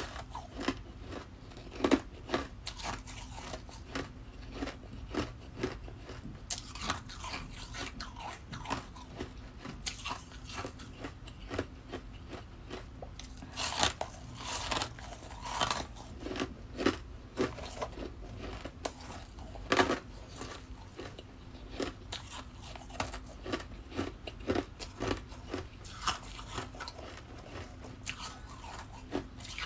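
Ice being bitten and chewed close to the microphone: a continuous run of crisp crunches, with the loudest bites about 2, 14 and 20 seconds in.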